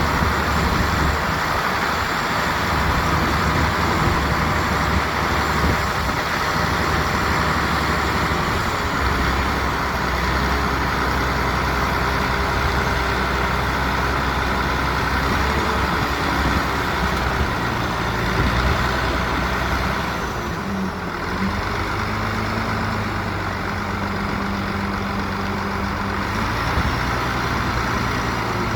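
Heavy diesel construction machinery running steadily, dump truck and bulldozer engines under work. About two-thirds of the way through the sound dips briefly and the engine note changes pitch.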